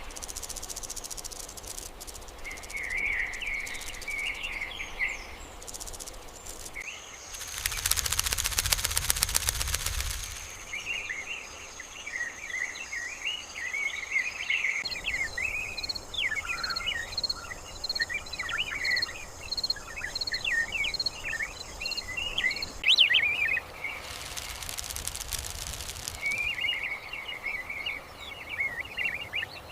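Small birds chirping and twittering over a steady high insect buzz. About a quarter of the way in comes a loud, rapid rattling rush lasting a couple of seconds, and a shorter one follows near the end.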